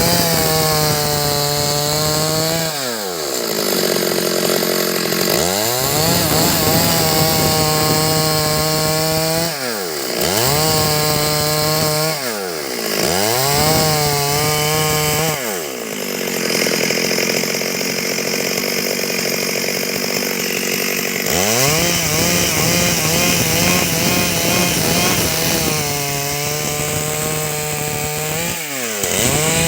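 Stihl MS 382 two-stroke chainsaw run up to full throttle and let back down to idle again and again. In the middle there is a longer stretch where the engine note turns rough under load as the chain cuts through wood.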